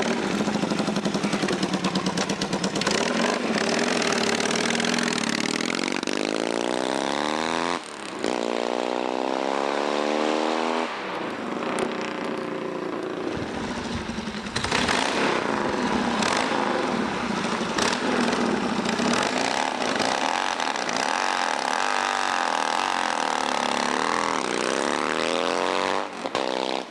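Motorcycle engine revving up and down as the bike is ridden, its pitch rising and falling again and again, with a brief drop in level about eight seconds in.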